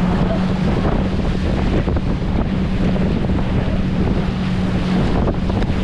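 Wind buffeting the microphone on a fast-moving banana boat ride, over rushing water and the steady drone of the towing motorboat's engine.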